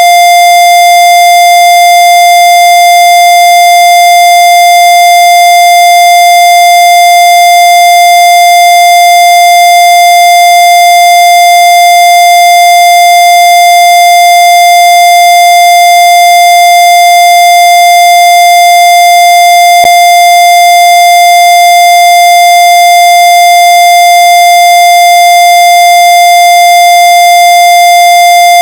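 A loud, steady electronic tone held at one high pitch without any change, harsh and buzzy with overtones. A faint click comes about two-thirds of the way in.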